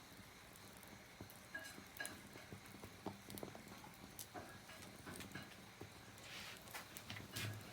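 Small wood fire crackling in a fire pit: faint, irregular pops and snaps.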